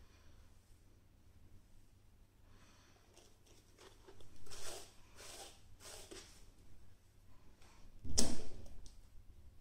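Hair being handled close to the microphone while it is pinned in place: a few soft rustles from about four seconds in, then one louder rustling bump near the end.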